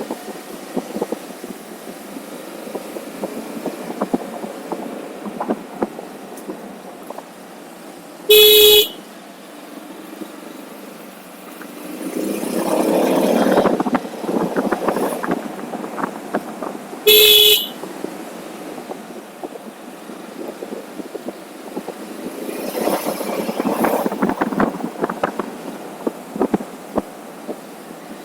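Two short vehicle horn beeps about nine seconds apart, the loudest sounds here, over the steady road and wind noise of a motorcycle ride, which swells twice.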